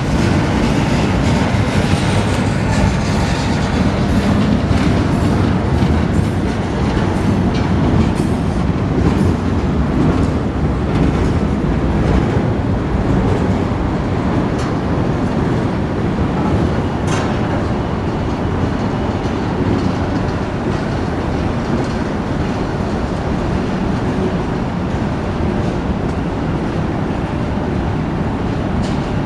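Freight train rolling past, a steady rumble with the clatter of wheels over rail joints.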